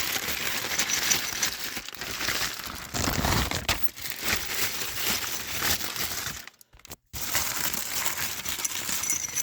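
Packaging crinkling and rustling as a new steering-column firewall cover is unwrapped and handled, with a short break about seven seconds in.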